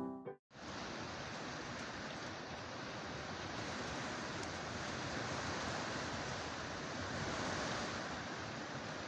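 Steady rain falling: an even hiss that starts abruptly and holds without a break.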